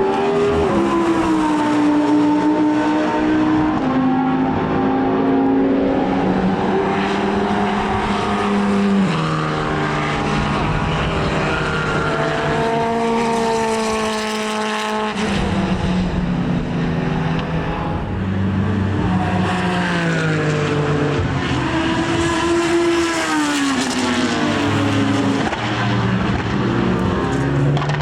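Racing car engines running on track, the engine note climbing and then stepping down repeatedly as the cars change gear, with a sudden change in the sound about halfway through.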